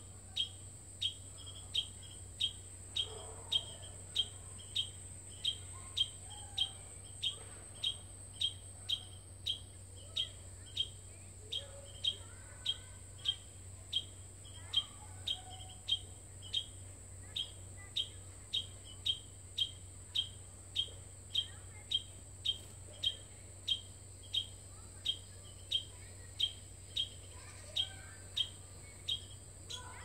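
A bird chirping one high note over and over at an even pace, about twice a second.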